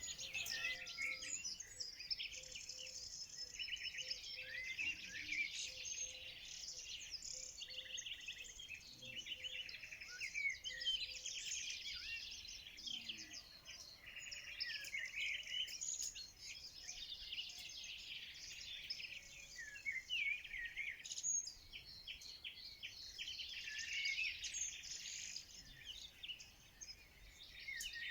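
Many small birds singing and chirping at once, a dense chorus of overlapping rapid trills and short high chirps.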